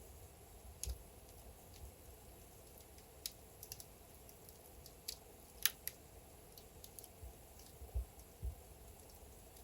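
Wood fire burning in a fireplace: burning logs crackling with irregular sharp pops over a faint steady hiss, with a couple of soft low thuds near the end.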